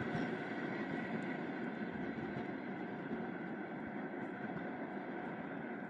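Passenger train rumbling away along the track, a steady wheel-and-rail noise fading slowly as the coaches recede.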